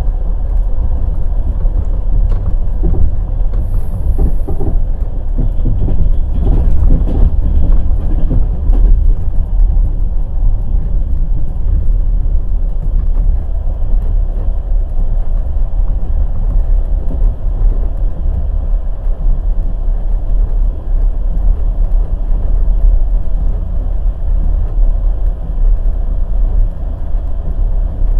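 Wheels of a passenger express train running on the rails: a steady heavy rumble full of small knocks and rattles, with a louder stretch of rattling a few seconds in.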